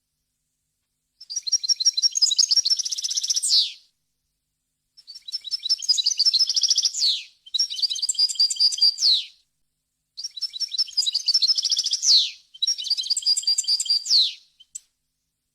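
European goldfinch singing: five phrases of rapid twittering trills, each about two seconds long and ending in a quick downward sweep, separated by short pauses. The first starts about a second in.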